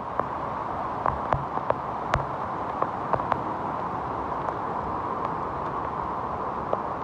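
Heavy rain: a steady hiss with scattered sharp taps of drops landing close to the microphone.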